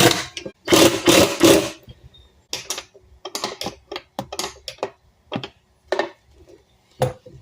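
Skateboard trucks and mounting hardware being handled and fitted to a deck: a few loud rustling, scraping bursts, then a run of short metallic clicks and knocks.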